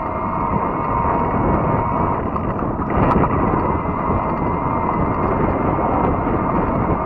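Steady rushing ride noise on a fat-tire electric bike under way: wind on the microphone and tyre rumble, with a thin steady whine running through it. There is a brief click about three seconds in.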